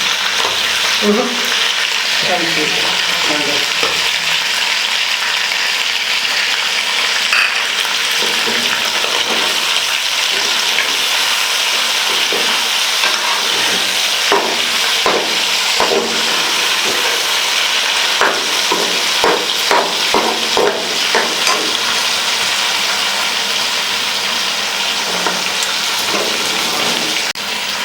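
Chicken frying in hot ghee in a karahi (wok) with a steady loud sizzle, while a metal spoon stirs and scrapes the pan in short clicks, most often in the middle stretch.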